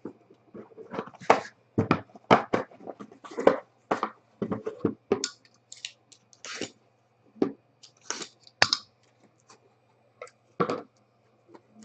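Sealed card packaging being torn open and handled: irregular crinkling and tearing of wrapper and packs, with a faint steady hum underneath.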